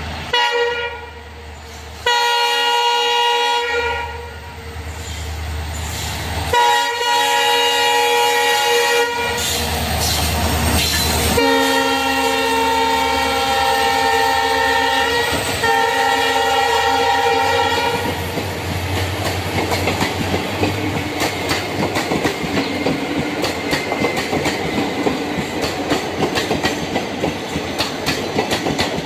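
Train horn sounding several long blasts, then the rapid clickety-clack of the train's wheels running over the rail joints.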